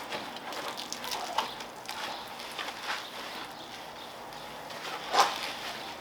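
Wet wash mitt being worked over car paintwork in a hand wash, with irregular squelching rubs and small slaps, and one louder wet slap about five seconds in.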